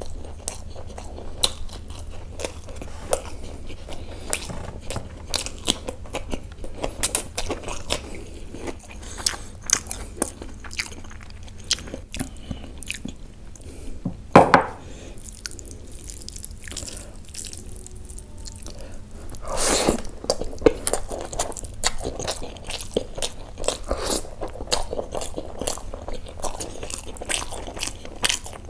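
Close-miked chewing of mouthfuls of mutton curry and rice topped with crispy fried onions: wet smacking and soft crunching in quick, uneven clicks, with a couple of louder mouth noises midway.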